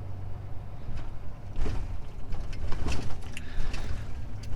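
Scania truck's engine running with a low rumble as the truck crawls along, heard from inside the cab, with a few knocks and rattles about a second and a half and three seconds in.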